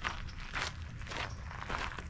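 Footsteps, about two steps a second in an even walking rhythm, each step a short crunch.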